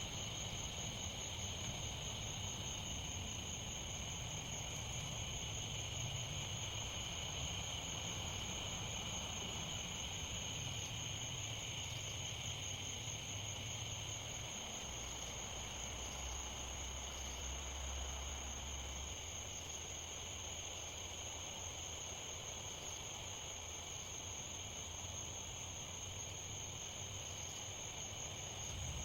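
Steady chorus of insects in the forest: a constant high-pitched shrill with a second, lower drone beneath it, over a low rumble.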